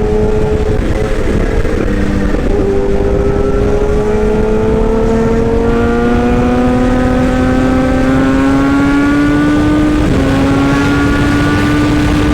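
An engine running steadily, its pitch creeping slowly upward.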